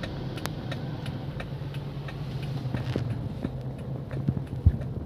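A vehicle's engine running steadily as it drives, with faint clicks throughout and a single low thump near the end.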